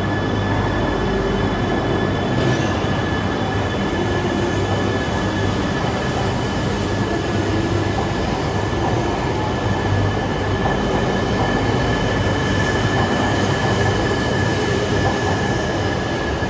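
E3 series Shinkansen train pulling out and running past along the platform: a steady rumble of wheels and running gear with a constant high whine over it.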